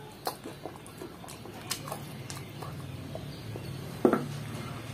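Mouth sounds of someone eating chicken curry by hand: chewing and lip smacks as meat is bitten off the bone, heard as scattered short clicks and smacks, with a louder smack about four seconds in. A low steady hum runs underneath.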